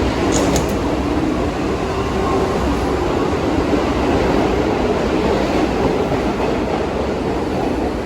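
New York City subway train running through the station, a loud steady rail and wheel noise, with a couple of brief high squeaks from the wheels shortly after the start.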